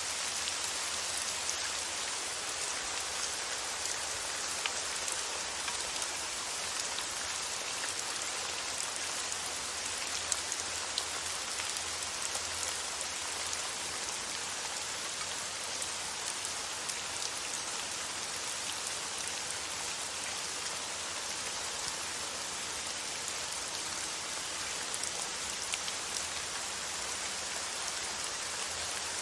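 Steady rain falling on a surface, an even hiss dotted with small drop ticks, used as white noise.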